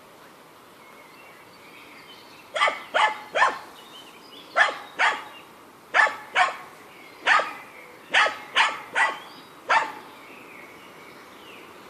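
A dog barking: about a dozen short, sharp barks in quick groups of two or three over several seconds.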